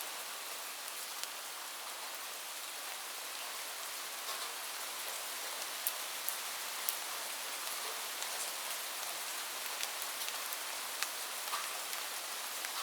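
Steady rainfall: an even hiss with individual drops ticking sharply here and there.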